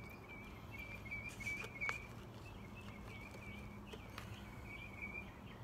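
Songbird singing in the background, an unbroken string of short, high, warbling phrases. A few faint clicks from hands handling seedlings in a plastic tray come in the first two seconds.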